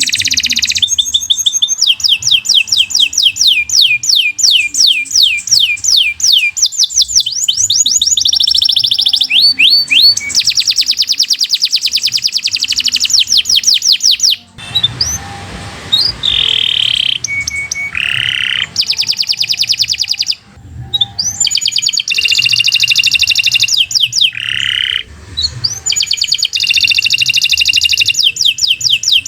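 Domestic canary singing a long, continuous song of fast repeated trills and rolls, switching to a new phrase every few seconds. There is a harsher, buzzier stretch midway and a couple of brief breaks.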